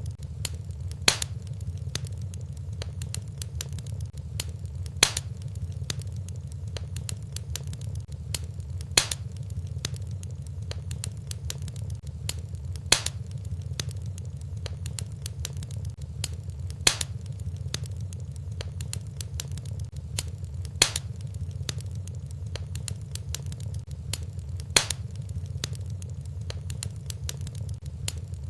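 Wood fire burning in a fireplace: a steady low rumble of flames under dense small crackles, with a sharper, louder pop about every four seconds.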